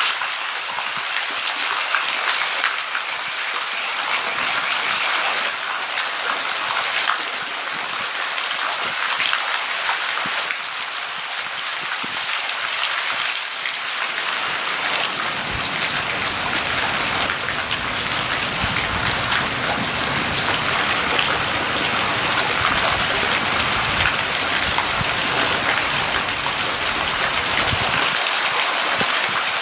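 Heavy rain falling steadily in a thunderstorm, a dense even hiss. From about halfway through to near the end a low rumble runs underneath it.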